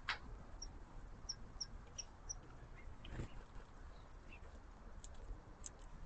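Faint, short, high chirps from a small songbird, about five in a row in the first two and a half seconds. A sharp knock comes right at the start, a softer one about three seconds in, and a few light clicks near the end.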